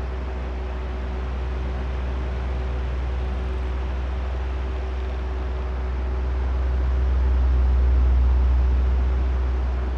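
Electric oscillating fan running: a steady drone of motor hum and rushing air. It swells gradually to its loudest about eight seconds in and then eases off as the fan head turns toward and away from the microphones.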